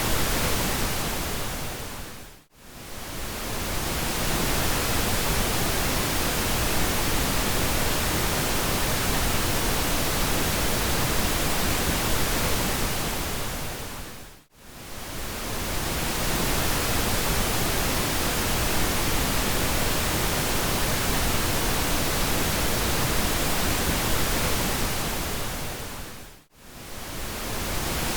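Steady pink noise, an even full-range hiss, that fades down to near silence and back up three times, about twelve seconds apart.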